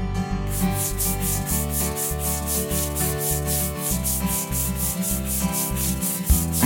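Rhythmic sandpaper-like rubbing strokes, about four a second, starting about half a second in, over background music with a steady bass line.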